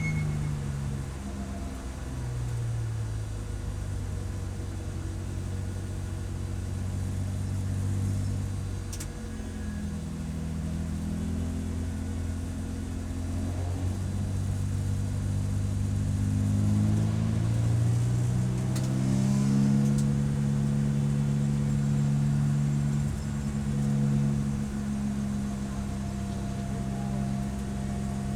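Race car engine running hard, its pitch repeatedly dropping in steps and climbing again as it brakes, shifts and accelerates, then holding at a steady high note near the end.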